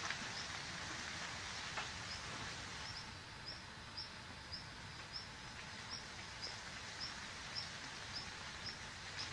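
Outdoor ambience with a steady hiss, and a bird repeating a short high chirp about twice a second from about three seconds in.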